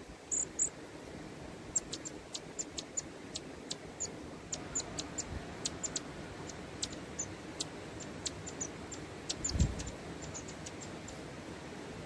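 Long-tailed tit giving many short, very high, thin calls in an irregular string, several a second at times, over a steady hiss. A dull low thump about two-thirds of the way through.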